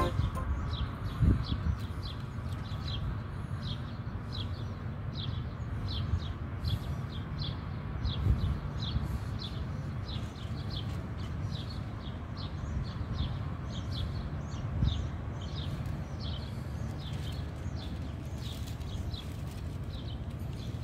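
A small bird chirping over and over, short high chirps about two to three a second, over a steady low outdoor rumble with a few dull bumps.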